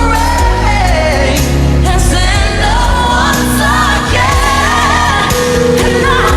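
A female pop singer singing a ballad live over band accompaniment, her voice sliding up and down through melodic runs.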